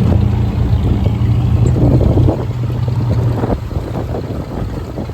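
Motor vehicle engine running with a low, steady hum, loudest for the first two seconds, then easing off and fading about halfway through, with scattered rattles and knocks.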